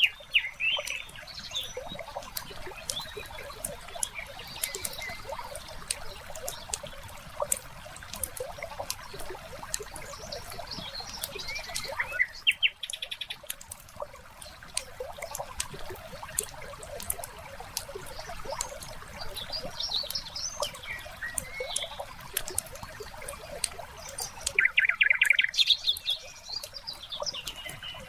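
Wood fire crackling with frequent sharp pops, under birds chirping and twittering; a rapid bird trill comes about halfway through and a louder one near the end.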